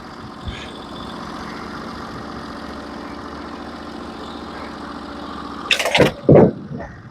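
Gas engine of a Norwood HD36v2 portable band sawmill idling steadily. Near the end comes a brief loud clatter and scrape.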